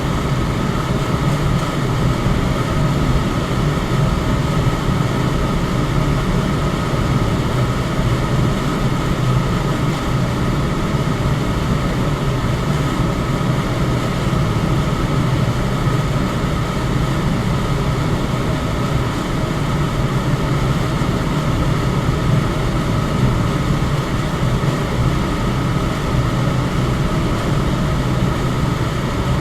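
An electric fan running steadily: an even rushing whoosh of moving air over a low hum from the motor and blades, with a faint steady whine. The sound does not change at all.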